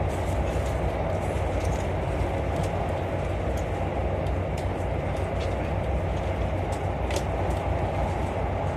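Steady running noise of a VIA Rail passenger train in motion, heard from inside the coach, with scattered light clicks over the low rumble.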